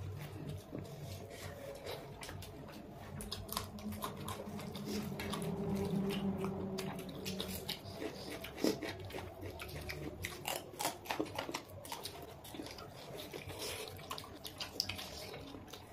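Wet chewing and mouth sounds of people eating curry-soaked eggs by hand, with irregular soft smacks and clicks of lips and fingers in the gravy.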